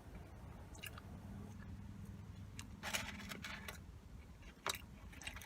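A person chewing food close to the microphone: soft mouth noises with a few short crunches, the clearest about three seconds in, and a sharp click near the end.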